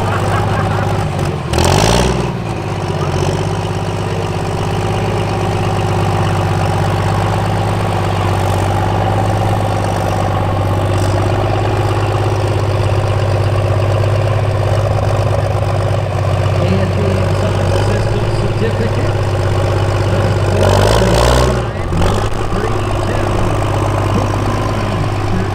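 Diesel truck engine idling with a steady low hum. There are two brief louder swells, about two seconds in and again near the end.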